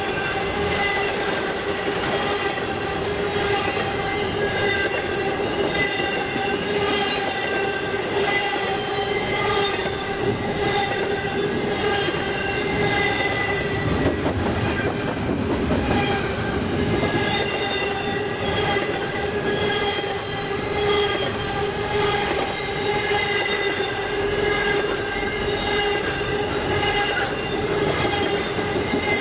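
CSX intermodal freight train's cars rolling past, the wheels rumbling and clicking over the rail joints, with a steady ringing squeal from the wheels.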